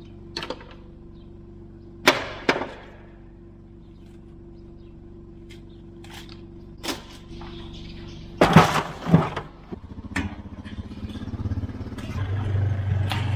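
Several sharp knocks and clacks over a steady low hum, the loudest pair about two-thirds of the way through. Then an engine comes up and runs louder through the last few seconds.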